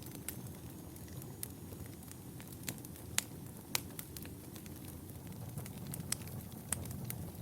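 Fire in a fireplace crackling: irregular sharp pops and snaps over a low steady rumble of the flames. The two loudest pops come a little over three seconds in.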